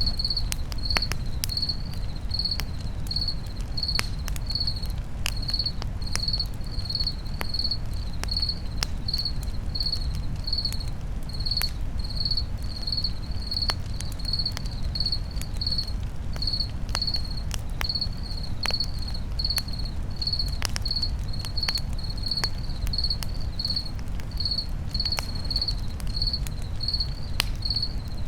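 A cricket chirping steadily, about three high chirps every two seconds, over a crackling campfire with scattered sharp pops and a low steady rumble of flames.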